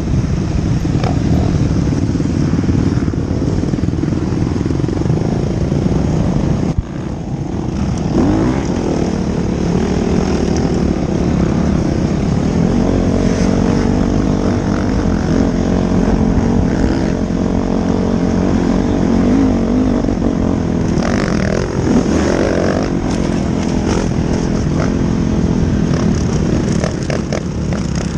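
Several motocross bikes running together on the track, a continuous engine drone whose revs rise and fall as they ride, with a brief drop in level about seven seconds in.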